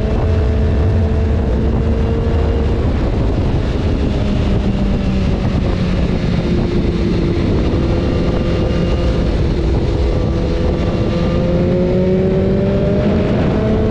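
BMW S1000RR inline-four engine running under way, its note dropping a few seconds in and then climbing slowly again near the end, under steady wind rush on the microphone.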